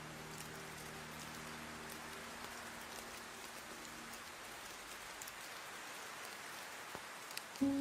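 Steady rain falling, with scattered drip ticks. A held piano chord fades out over the first few seconds, and a new piano note sounds just at the end.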